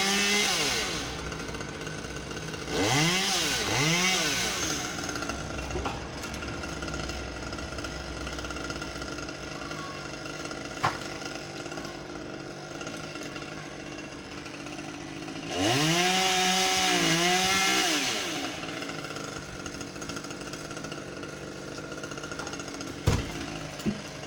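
Husqvarna T540XP top-handle two-stroke chainsaw idling and being blipped: two quick revs about three and four seconds in, then a rev held for about two seconds past the middle before it drops back to idle. There are a couple of sharp clicks.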